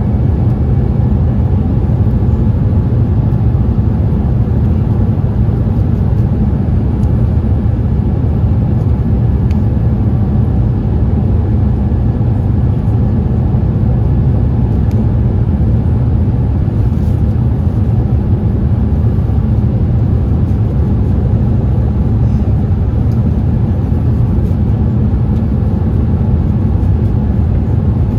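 Steady cabin noise inside a Boeing 787-8 airliner in flight: an even, loud drone of engines and airflow, deepest in the low range, unchanging throughout.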